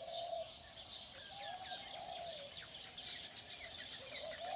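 Birds calling: repeated low notes that rise and fall, over a steady chatter of high chirps.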